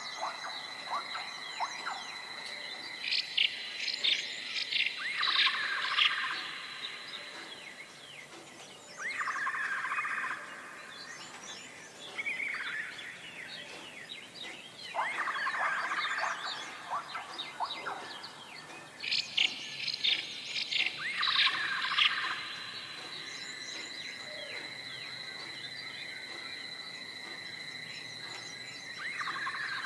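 Songbirds chirping and singing in bursts, with rising phrases repeating every few seconds, over a steady high-pitched buzz.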